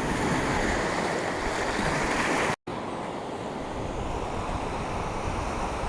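Sea surf washing onto a beach, a steady rush of waves. The sound cuts out for an instant about two and a half seconds in and comes back a little quieter.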